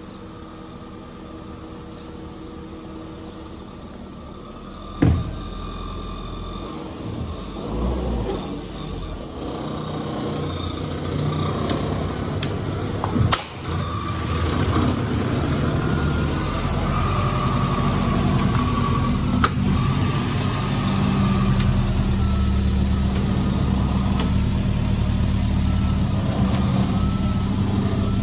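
Honda Civic Type R (EK9) with its 1.6-litre VTEC four-cylinder idling as the car creeps up the ramp into an enclosed trailer. The engine grows louder as it comes closer, with two sharp knocks along the way.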